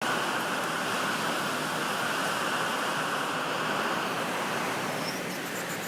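Steady rushing noise of a heavy rainstorm, even and unbroken throughout.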